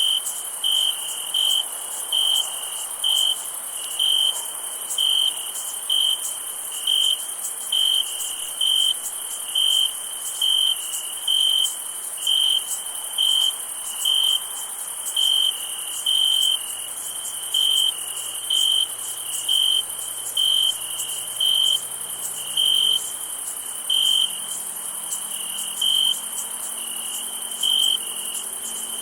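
Crickets chirping on a summer night. One nearer cricket chirps about once a second, evenly, over a steady high-pitched insect chorus.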